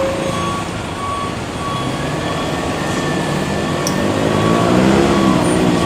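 Heavy truck engine running amid road noise; its pitch rises and wavers about four seconds in. A short high beep repeats throughout.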